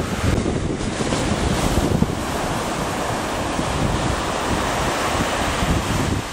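Ocean surf breaking on a beach, with wind buffeting the microphone.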